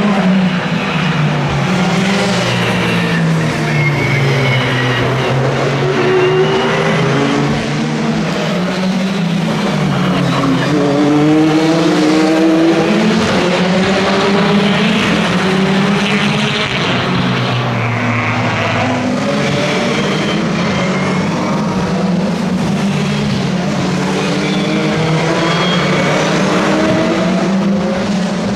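Several racing cars running on the circuit, their engines climbing in pitch through the gears and dropping back on the shifts, one car after another, with no break.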